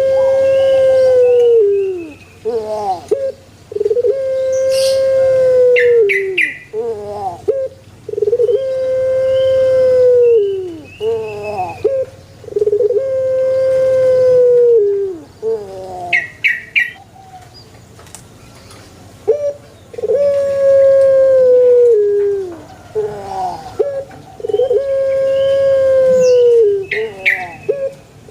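Male Barbary dove (puter) cooing: long, drawn-out coos about every four seconds, each held steady and dropping at the end, with short broken notes between them. A few brief high chirps from other small birds come in now and then.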